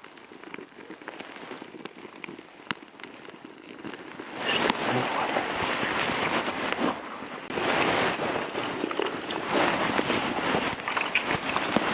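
Dry spruce kindling twigs catching fire and crackling. Scattered quiet crackles at first, then about four seconds in the fire flares up into a loud, dense crackle with many sharp pops.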